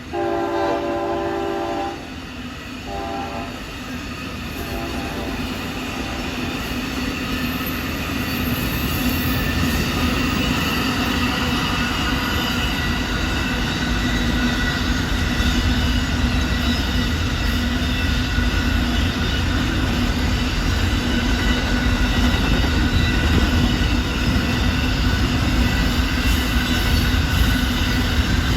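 Amtrak Auto Train locomotive horn sounding one long blast and then two short ones. The long train then passes close by, a steady rumble of engines and cars on the rails that builds louder.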